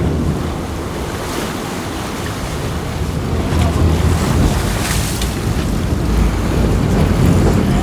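Wind buffeting the microphone over waves and rushing water around a boat at sea, swelling several times.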